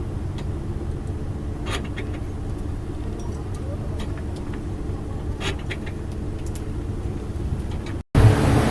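Boat engine running steadily at a constant low pitch. Near the end it cuts out for an instant and gives way to louder wind and wave noise.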